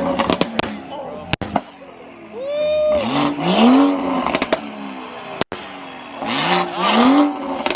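A car engine being revved hard twice, the pitch climbing then dropping each time, with sharp pops as the revs fall.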